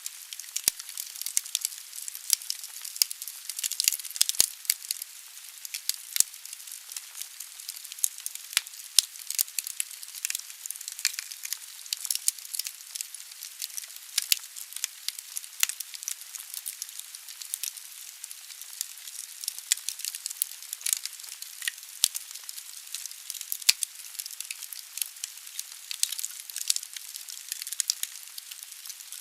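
Wood fire burning in a fireplace: logs crackling with frequent irregular sharp pops over a steady hiss.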